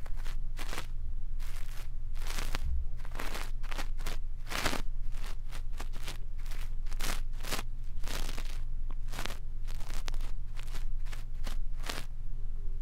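A brush scratching and rustling against an ear-cleaning ASMR microphone, in quick, irregular strokes, some longer swishes among short crackles, over a steady low hum.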